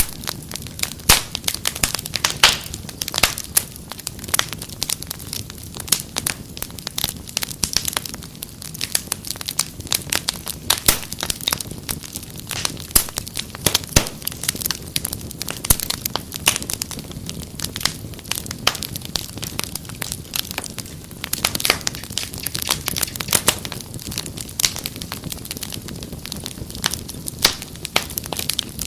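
Wood fire crackling: irregular sharp pops and snaps, several a second, over a steady low hiss of burning.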